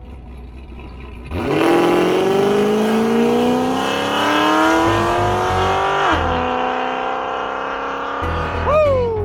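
A muscle car's engine accelerates hard, its pitch climbing steadily for several seconds. It drops suddenly at a gear change and runs steady, then gives a quick rev that rises and falls away near the end.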